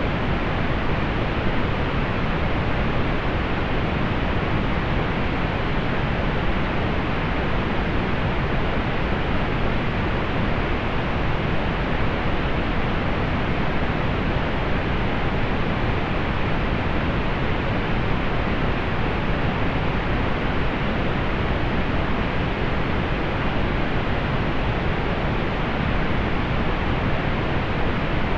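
Steady pink noise: an even, unchanging hiss weighted toward the low end, fading off in the highest treble.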